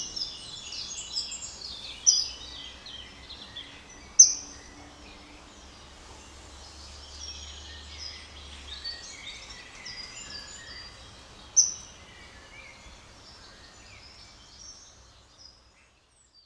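Songbirds singing in a dense chorus of chirps and trills, with a few loud, sharp, falling calls standing out. It fades out near the end.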